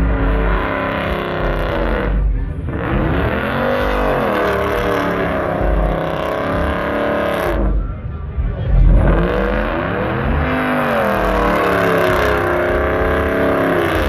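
A truck engine revving hard as it spins donuts, its pitch repeatedly climbing and falling, easing off briefly twice, over the noise of spinning tyres.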